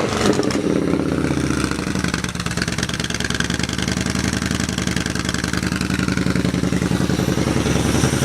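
2014 Yamaha Bolt's 942cc V-twin idling steadily through a performance exhaust, just after being started.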